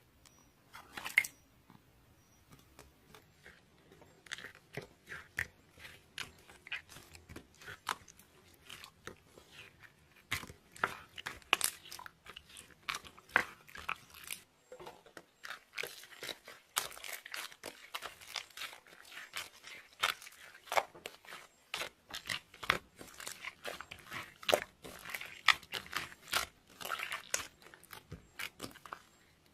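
Clear slime being squished and stretched by hand, giving a rapid, irregular run of small clicks and pops. The pops are sparse at first and come much thicker from about ten seconds in.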